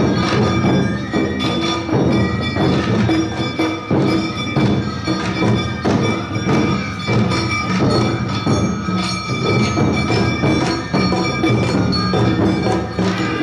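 Live Awa Odori festival music from a troupe's band of drums, bells and flute: drums beat a steady rhythm under a ringing, metallic, bell-like tone and high held notes.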